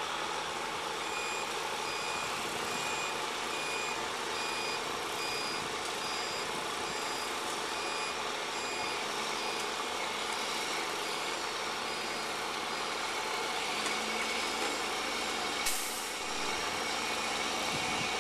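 A heavy truck's reversing alarm beeping steadily, about one beep a second, over the truck's running engine. The beeps stop about halfway through, and a short sharp hiss comes near the end.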